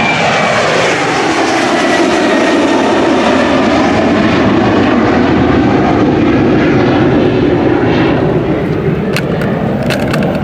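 Jet airliner engines running loud and close, with a high whine that falls in pitch over the first few seconds as the aircraft passes. A few sharp clicks near the end.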